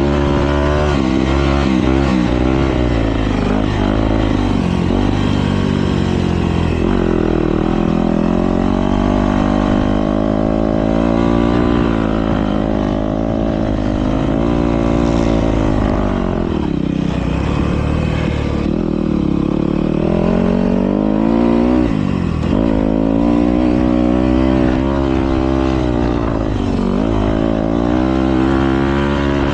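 Several motocross bikes racing, engines revving up and down through the gears as they pass, with the pitch swelling and falling repeatedly.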